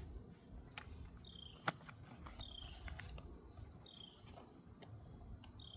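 A few light clicks and knocks as items are handled in a rolling makeup case's drawer, over a steady high-pitched whine and short insect-like chirps repeating every second or so.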